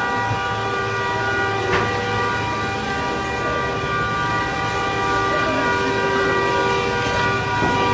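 A loud, continuous horn-like tone of several pitches sounding together, held steady without a break.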